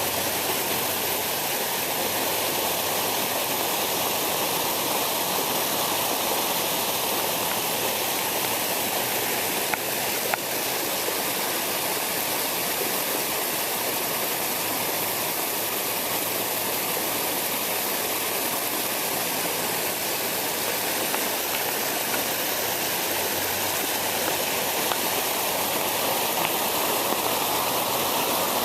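Storm water runoff from a parking lot rushing steadily.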